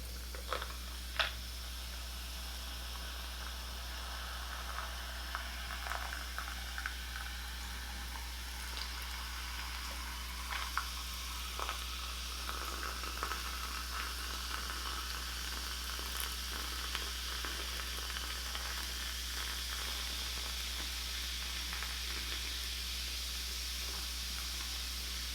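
Raspberry sparkling water fizzing, a steady crackling hiss of bubbles that grows slightly stronger. A few sharp clicks come in the first seconds, the loudest about a second in.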